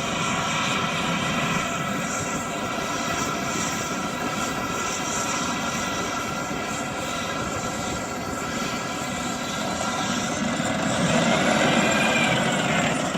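Military tank running steadily, an engine whine of several steady tones over a dense rumble. Near the end a tone briefly rises and falls.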